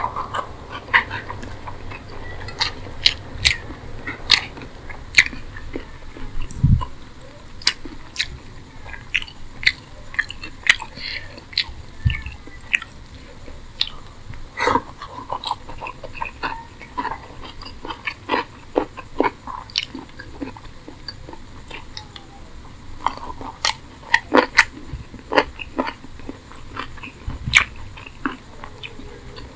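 Wet chewing of a mouthful of rice and chicken curry, with many sharp lip-smacking clicks.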